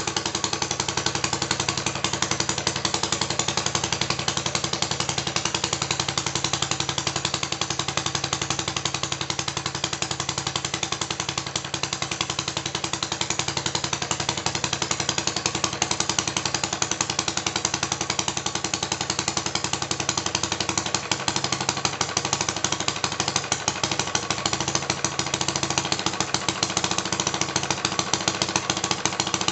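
Model four-stroke petrol stationary engine running steadily, its firing a rapid, even chatter of beats.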